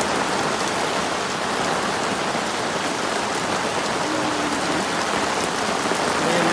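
Heavy tropical forest rain falling steadily, a dense even hiss of downpour.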